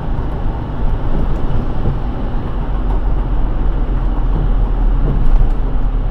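A car driving on a wet road in the rain: a steady hiss of tyres on wet pavement over a strong low road rumble.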